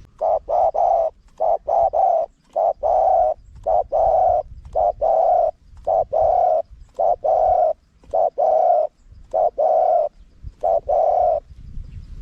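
Spotted dove cooing: short, loud, low coos in repeated phrases of two or three notes, going on until shortly before the end.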